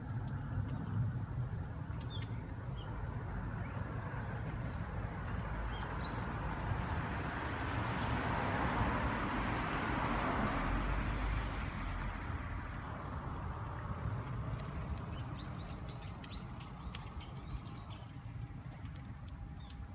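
Steady low rumble of a bicycle ride, with a rushing noise that swells and fades around the middle. Short bird chirps come near the end.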